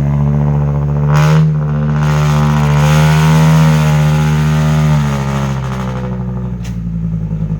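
Dump truck's diesel engine revving hard under load, held high for about four seconds and then easing off, with a brief rushing burst about a second in. The truck is straining to climb a rain-soaked haul road and fails to make it up.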